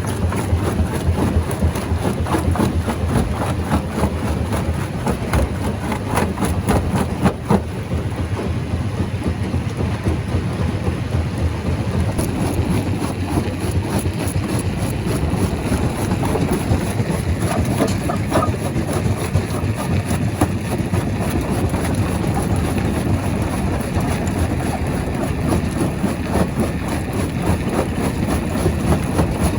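Rock crusher machine running with a steady low rumble, with frequent short cracks and knocks of stone breaking throughout.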